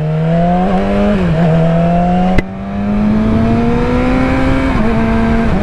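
Yamaha R6 sportbike's inline-four engine pulling under way, its note climbing steadily. A brief dip about a second in, then a sharp click with a short drop in level around two and a half seconds in, typical of a gear change, before the note climbs again.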